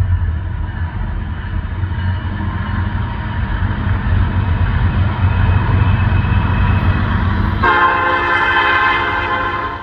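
Freight train rumbling past, then a locomotive air horn sounding a long chord of several pitches for about two seconds near the end as the rumble drops away abruptly.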